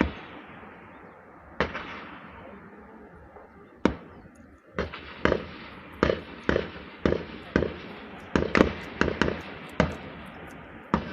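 Gunfire: single shots a second or two apart, then quickening to a shot about every half second from about five seconds in, each shot followed by a long echo.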